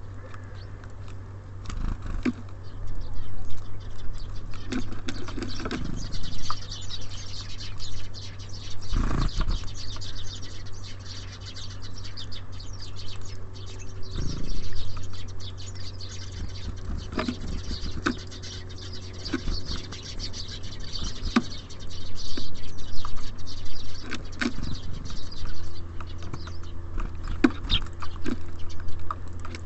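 Small birds pecking and scrabbling on a bird feeder: many irregular sharp taps and clicks of beaks and feet, with a low steady hum underneath.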